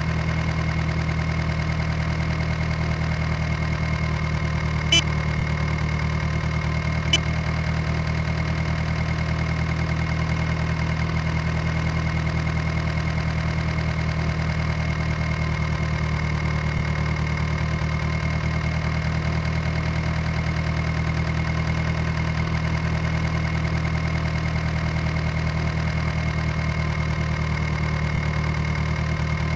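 Tractor engine running steadily at idle, with a steady high whine above it and two sharp clicks about five and seven seconds in.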